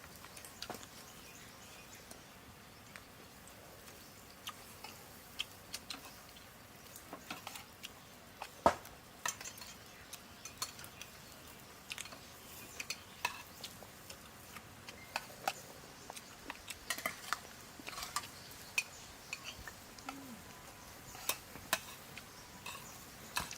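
Cutlery clinking and scraping against plates during a meal: scattered, irregular clicks, with one sharper knock about eight and a half seconds in.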